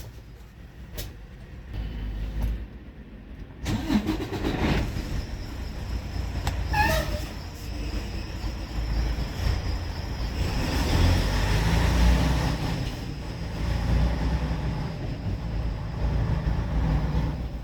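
Semi-truck's diesel engine running as the truck pulls away, heard from inside the cab. The engine and road noise jump up about four seconds in and keep building as it gathers speed.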